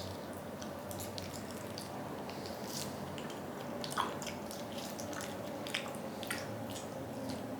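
Wet, squishy chewing of raw chicken, with scattered small clicks and smacks.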